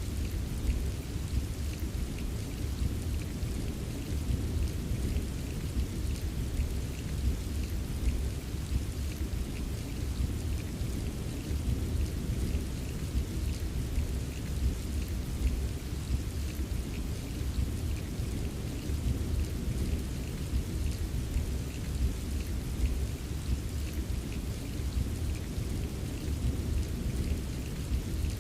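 Steady rain with many small drops ticking, over a continuous low rolling rumble of distant thunder that never breaks into a sharp clap.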